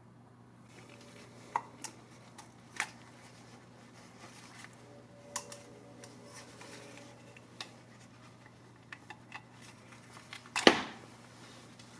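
Scattered light clicks and knocks, as of small hard objects being handled, over a steady low hum, with one much louder knock near the end.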